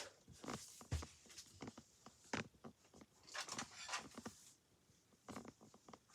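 Footsteps of a person walking up stairs, a run of irregular light steps and knocks with a heavier low thump about a second in.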